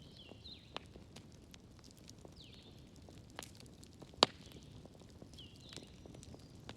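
Wood fire crackling, with scattered sharp pops and one much louder snap about four seconds in. Short high chirping calls repeat several times behind it.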